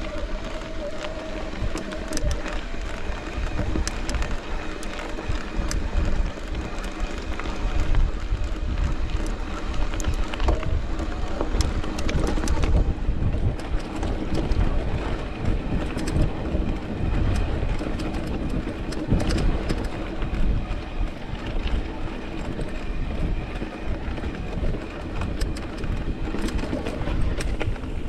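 Mountain bike ridden over a rough, rocky trail: wind rumble on the microphone, with constant rattling and sharp knocks from the bike over rocks.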